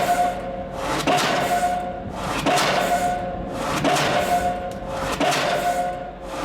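Diesel pile driver hammering a steel H-pile into the ground: about five heavy blows at an even pace, roughly one every second and a bit, each followed by the ringing of the struck steel.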